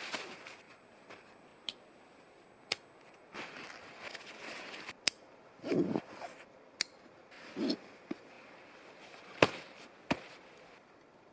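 Dry wood cracking and snapping: about six sharp, separate cracks spread over several seconds, with two short rustling sounds near the middle.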